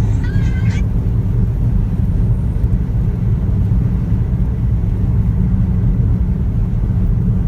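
Strong sandstorm wind buffeting the microphone: a loud, steady low rumble.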